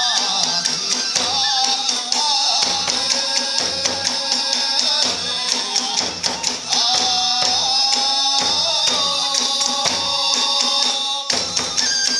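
Iwami kagura hayashi music: a bamboo flute plays a held, wavering melody over steady strokes of the big drum and the continuous clashing of small brass hand cymbals.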